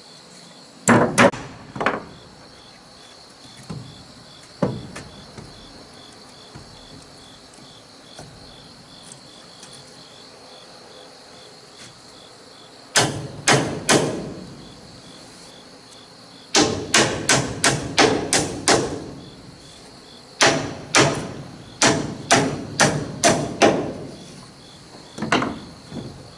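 Hammer blows on wood in quick runs of strikes, up to about nine in a row, with pauses between runs, as wooden house walls are put together. A steady insect chirring runs underneath.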